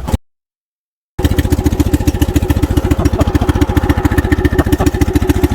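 Small petrol engine of a tracked power carrier running steadily with rapid, even firing just after being started, choke still pulled. It comes in abruptly after about a second of dead silence near the start.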